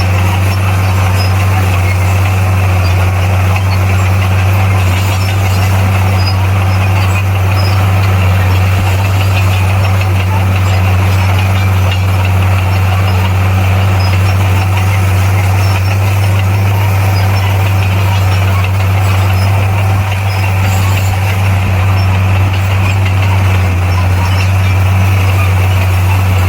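Heavy diesel engine of earthmoving machinery running steadily at a constant speed, a deep, unchanging drone.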